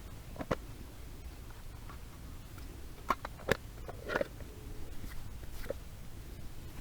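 A few sharp, scattered clicks and light knocks, about five of them with the clearest around the middle, over a low steady background.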